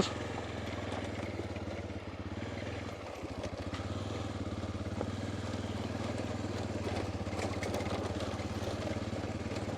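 Honda Dominator's single-cylinder engine running steadily at low speed on a dirt track, easing off briefly about three seconds in before picking up again.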